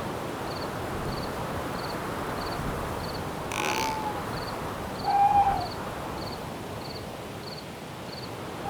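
Night forest ambience: a steady wind-like hiss with a cricket chirping about twice a second, and an owl giving two short hoots, about three and a half and five seconds in.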